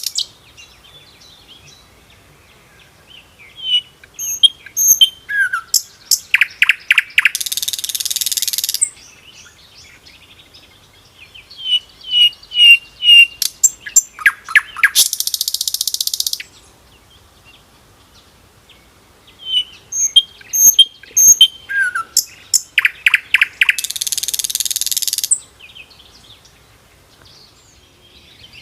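Common nightingale singing three song phrases with pauses between them. Each phrase runs through clear whistled notes and fast rattling clicks, then ends in a loud, harsh buzzing trill lasting about a second and a half.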